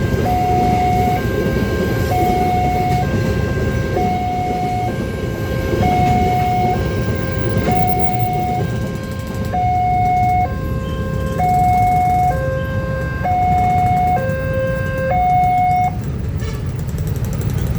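Railway level-crossing warning alarm sounding a two-tone alternating chime, high and low notes taking turns about once a second, and stopping about two seconds before the end. Under it runs the steady rumble of a passing freight train of fuel tank wagons.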